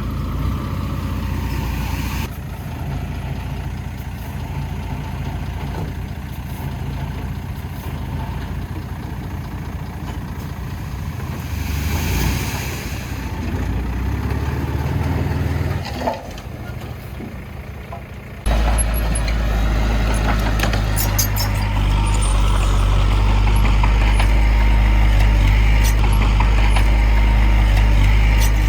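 Heavy diesel engines of earthmoving machinery running steadily, with a brief air hiss about halfway through. About two-thirds of the way in the sound switches abruptly to a louder, deeper engine drone.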